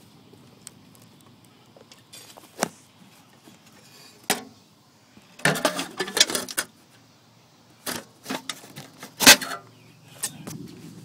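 Irregular sharp clicks and rattles over a faint background, with a quick cluster of them about five and a half seconds in and the loudest single clack a little past nine seconds.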